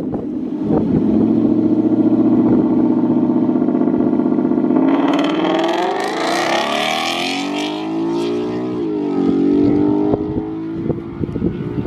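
Ford Mustang GT's 5.0 Coyote V8 running at steady revs as the car rolls off, then opened up about five seconds in, revs climbing under hard acceleration. There is an upshift near the middle of the climb, then the revs rise again as the car pulls away.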